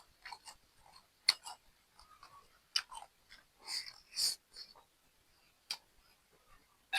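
A person chewing and biting crunchy food, with irregular short crunches and mouth sounds.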